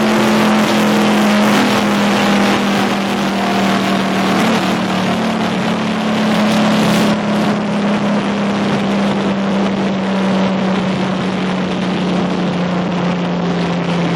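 NASCAR race truck's V8 engine running hard at a steady high pitch, with a dense rushing noise over it; the pitch sags slightly over the last few seconds.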